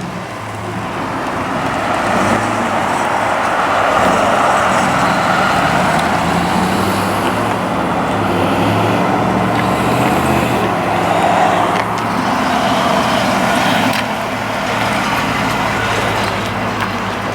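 Motor vehicle engine running close by, growing louder over the first couple of seconds and then holding steady.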